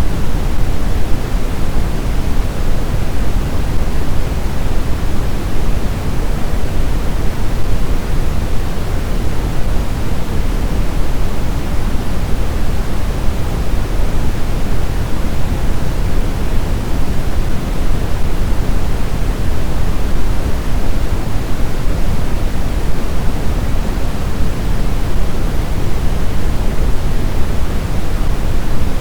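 Blizzard wind blowing as a steady, deep rushing noise, heaviest in the low end, with no howls, gusts or breaks.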